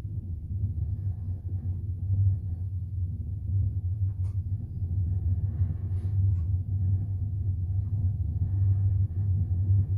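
Steady low rumble of a moving double-decker passenger train heard from inside the carriage, with two faint clicks about four and six seconds in.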